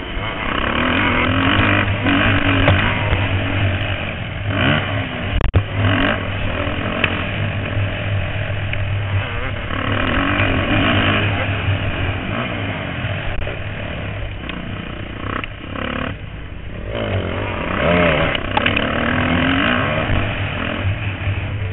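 Several motocross bikes racing, their engines revving up and falling back again and again, overlapping as riders accelerate and brake around the track. A brief sharp knock about five seconds in.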